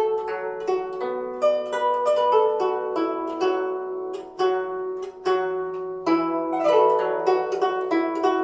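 Guzheng played solo: a steady run of plucked notes that ring on, with a quick flurry of notes about six seconds in.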